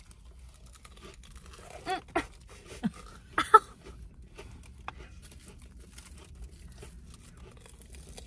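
Chewing on a crunchy Korean fried corn dog close to the microphone, with soft crackling bites throughout. A few short bursts of laughter come about two to three and a half seconds in.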